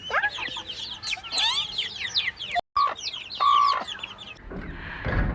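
A flock of chicks peeping, many short high chirps falling quickly in pitch and overlapping. Near the end a low rumbling noise comes in under them.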